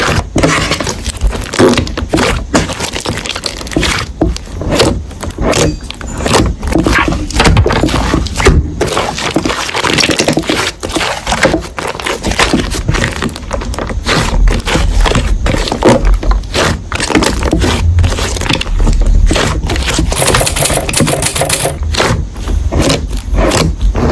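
Slime being squeezed and pressed by hand, making dense, irregular crackling and popping sounds.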